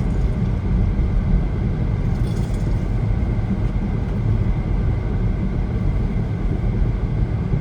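Steady road and engine rumble of a car driving at highway speed, heard inside the cabin.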